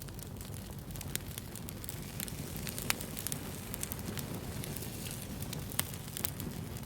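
Wood fire burning, a steady low rumble with irregular pops and crackles, two louder snaps about three and six seconds in.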